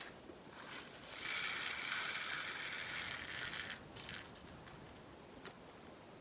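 Diamond painting drills, tiny resin beads, poured from a bag into a storage pot: a steady rattling hiss that starts about a second in and lasts about two and a half seconds.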